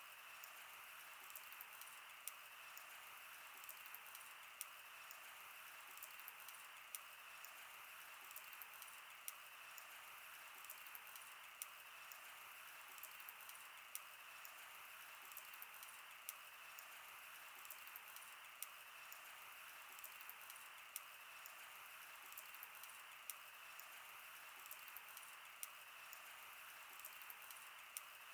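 Wood fire burning: a soft, steady hiss with frequent small crackles and a sharper pop about every two seconds.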